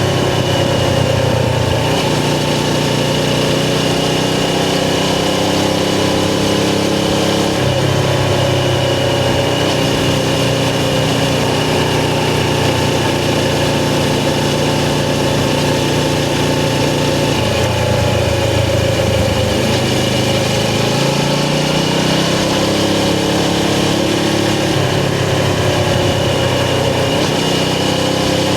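Suzuki GS500 air-cooled parallel-twin motorcycle engine running under way, heard from the rider's position. Its note holds steady for stretches and steps up or down a few times, about 2, 7, 17 and 21 seconds in.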